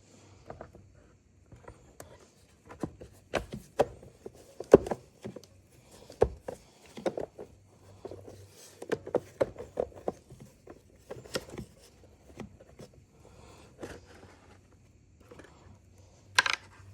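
Irregular clicks, taps and knocks of parts and tools being handled during hands-on work on a cordless chainsaw, with a short scrape near the end.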